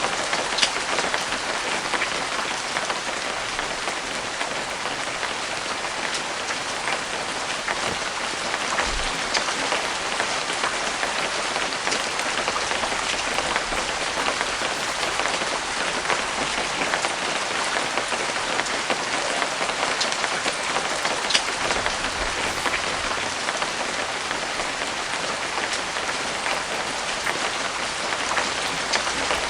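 Steady rain falling, an even hiss with scattered single drops ticking sharply through it.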